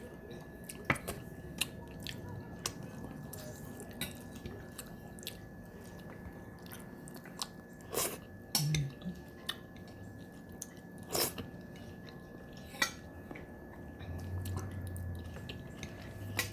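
Close-up chewing and mouth sounds of someone eating, with scattered sharp clicks and taps of cutlery and dishes; the loudest clicks come about eight and eleven seconds in.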